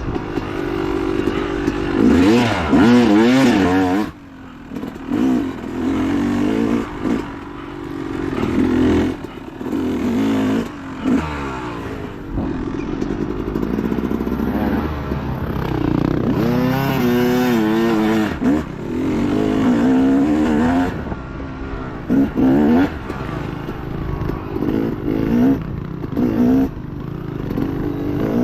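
Dirt bike engine revving up and down again and again as the throttle is worked and chopped on rough off-road ground, dropping off sharply about four seconds in before picking up again.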